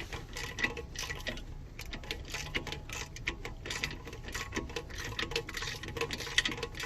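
Ratchet wrench clicking in quick, uneven runs as the bolts of a new front wheel hub bearing are run in and snugged down.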